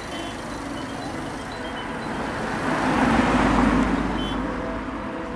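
Road traffic with a motor vehicle passing: a rush of noise that swells to a peak about three seconds in, then fades.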